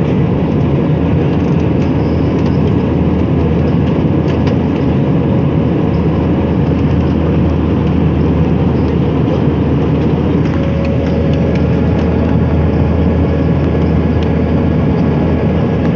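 Steady cabin noise inside an airliner: a loud, even rumble of engines and rushing air with a faint steady hum above it.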